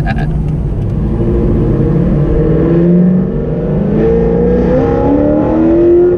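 2004 Corvette C5 Z06's LS6 V8, with a Brian Tooley Racing cam, Kooks long-tube headers, catless X-pipe and Corsa Extreme axle-back exhaust, accelerating through the gears, heard from inside the cabin. The engine note climbs, drops at an upshift about four seconds in, climbs again and drops at another shift near the end.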